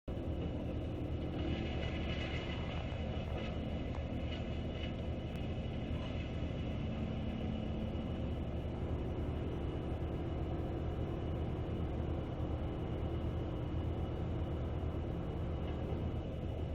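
Wood chipper running steadily, its engine giving a constant low rumble, a little harsher for a few seconds near the start.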